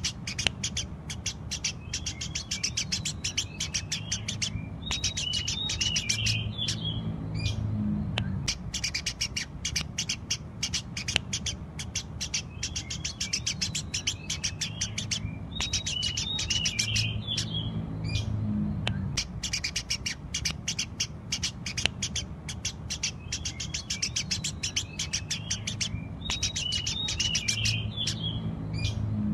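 Eurasian tree sparrow chirping rapidly and continuously, many short chirps a second. A busier phrase recurs about every eleven seconds, as in a looped recording, over a steady low hum.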